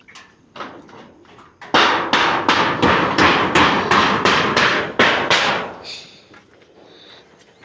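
Hammering: a quick run of hard blows, about three a second, starting about two seconds in and stopping near six seconds, with a few lighter knocks before it.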